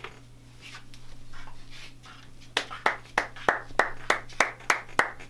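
A single person clapping in a steady, even rhythm, about three claps a second, starting about halfway through.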